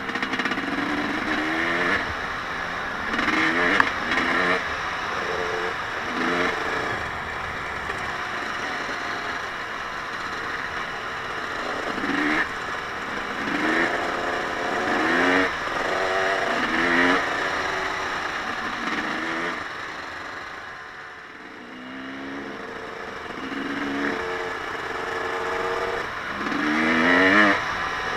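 Off-road vehicle engine revving over and over, its pitch climbing in short rises, with a brief let-off about three quarters of the way through and the loudest rev near the end.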